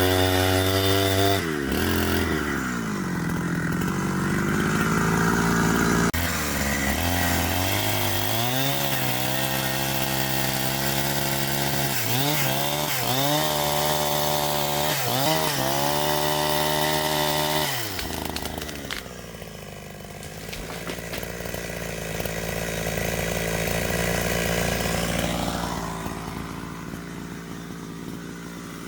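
Two-stroke chainsaw running, its engine note repeatedly rising and falling as the throttle is opened and let off. After about 18 seconds the clear engine note drops away and a rougher, noisier sound carries on to the end.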